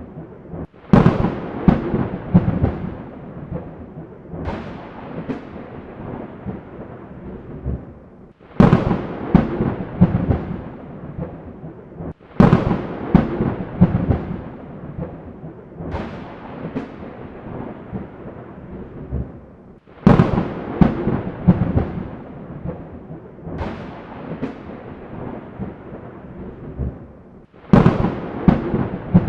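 Thunder: about eight sharp cracks, one roughly every four seconds, each followed by a rolling rumble that fades before the next.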